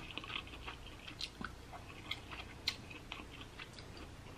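Close-up chewing of king crab meat: soft, wet mouth clicks and smacks at irregular intervals, the sharpest about two and a half seconds in.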